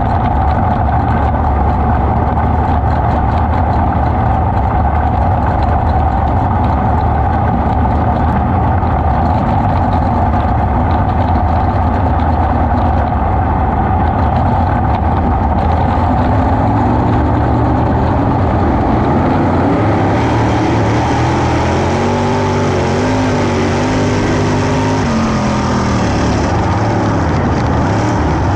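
410 sprint car's V8 engine running loud and close at a steady pitch. About 20 seconds in, a higher tone comes in and wavers up and down for several seconds.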